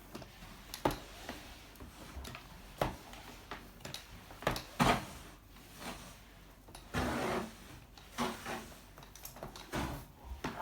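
Kitchen handling sounds: scattered knocks and clicks with a few short scraping or rustling noises as utensils and dishes are moved about.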